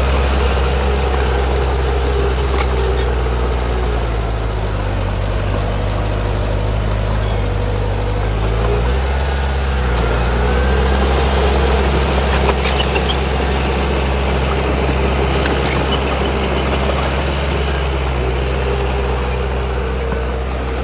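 Bulldozer's diesel engine running steadily, its engine note changing a few times as the load or throttle shifts, with a few sharp clanks.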